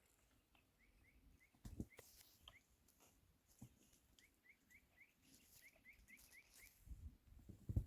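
Faint bird chirping: several quick runs of short, rising chirps at about four a second, with a couple of soft low thumps, one near the end.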